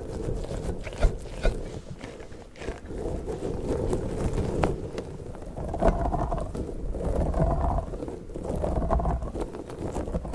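An orange squishy slug toy being squeezed and kneaded by hand close to the microphone: irregular squishing swells with small sticky clicks.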